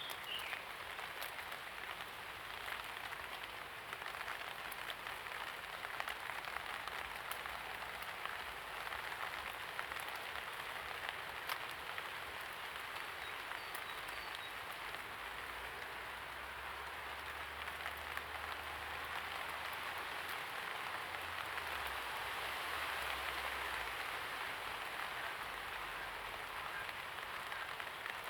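Rain falling steadily, an even patter with scattered sharper drop hits. A faint low drone sits under it from about halfway through until a few seconds later.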